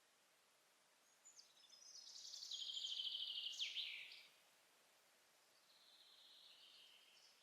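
A songbird sings a fast trilled phrase of about three seconds that grows louder and ends in a quick downward sweep. A second, fainter song follows near the end, over a low steady hiss of forest ambience.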